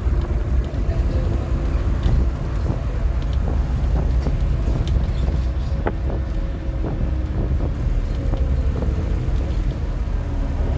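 Scania N230UD OmniCity double-decker bus's diesel engine and drivetrain running steadily while driving, with scattered small rattles and clicks.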